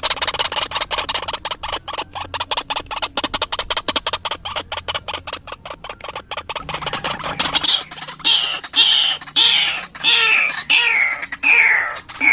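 White-breasted waterhen (ruak-ruak) calling, as used for a lure call: a rapid rattling chatter of many short clicks, then, about two-thirds of the way in, loud repeated falling notes about twice a second.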